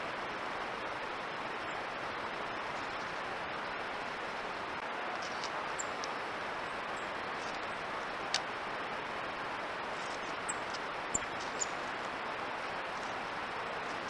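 Steady hiss with a few faint, very short high chirps from small birds, and one sharp tick about eight seconds in.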